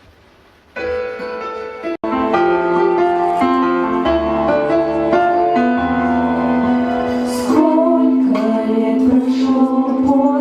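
An instrumental backing track with sustained chords starts about a second in, with a brief dropout shortly after; singing voices come in over it a little past the middle.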